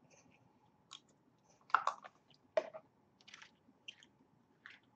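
Close-miked eating sounds from a man's mouth: a handful of short, separate wet chewing and mouth clicks, loudest just under two seconds in and again a moment later.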